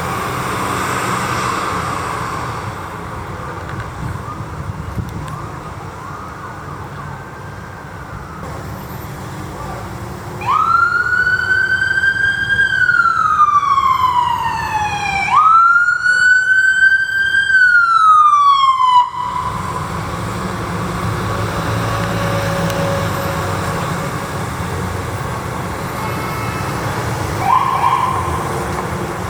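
Emergency vehicle siren sounding two wails in a row, each rising quickly and then falling slowly, before cutting off abruptly. Vehicle engine and road noise runs before and after.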